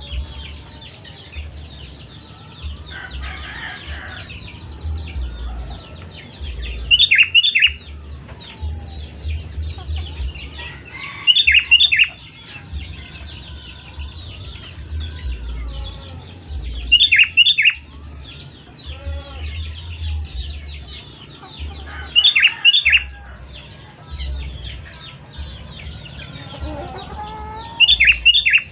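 Sooty-headed bulbul (kutilang) giving loud, short bright phrases five times, about every five seconds, over a steady background of fainter high chirping and a low rumble.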